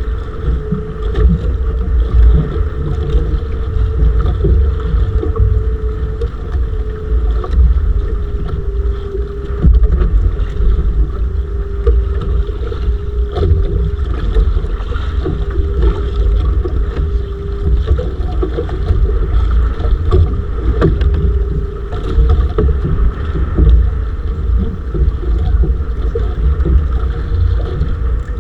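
Motorised bangka's engine running steadily, with wind buffeting the microphone.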